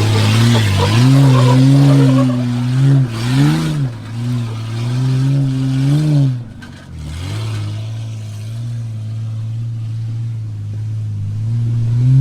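Nissan GQ Patrol's carburetted TB42 straight-six running with no exhaust, revved up and down in several bursts under throttle, with a rushing noise over it in the first few seconds. About six and a half seconds in it drops almost to a stall, then settles to a steady idle before being revved again near the end.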